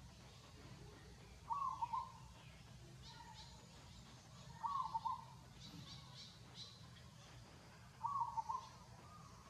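A bird calling over and over: a short call of a few quick notes, three times about three seconds apart, with fainter high chirps of other birds between.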